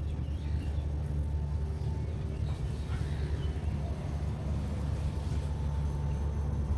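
Outdoor ambience: a steady low rumble, with a few faint bird chirps near the start and around the middle.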